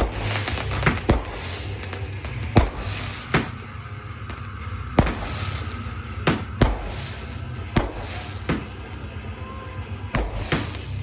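Consumer firework cakes going off: sharp bangs of bursting shots at irregular spacing, about one a second, over a steady crackling hiss.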